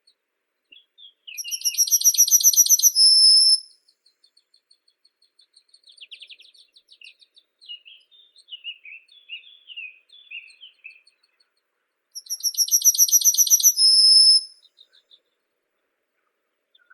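A songbird singing two loud songs about ten seconds apart, each a fast, rapidly pulsed trill that ends on a short held high note. Softer, scattered twittering fills the gap between them.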